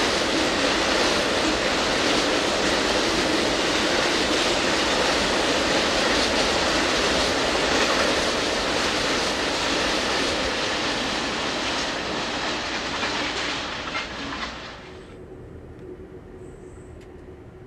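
Enclosed auto-carrier cars of Amtrak's Auto Train rolling past at speed, with loud steady wheel-on-rail noise and a faint clickety-clack. About fifteen seconds in, it drops away to a much quieter steady hum.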